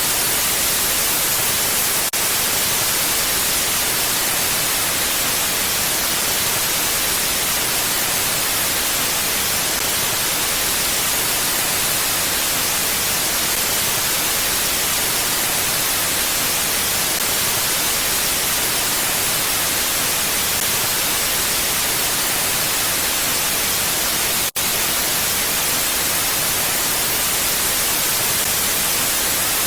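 Steady mountain wind, an even, bright hiss with no gusts. It drops out for an instant twice, about two seconds in and about twenty-five seconds in.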